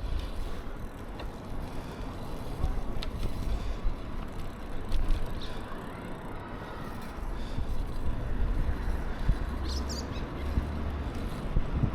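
Wind rushing over the microphone and rolling noise while riding a bicycle, a steady low rumble, with a brief high chirp about ten seconds in.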